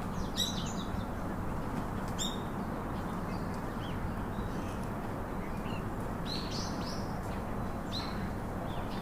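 Wild birds chirping in short, high clusters every few seconds, over a steady low background hiss.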